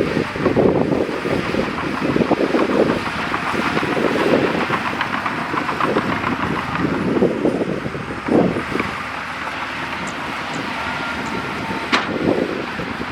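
Bulldozer's diesel engine working under load, rising and falling in level, with steady rattling and clanking. A single sharp knock near the end.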